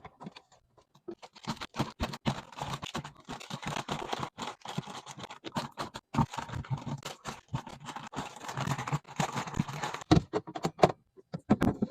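Items being handled while a refrigerator is organized: a dense run of scratching and rustling from about a second and a half in until about ten seconds, then a few separate knocks and taps.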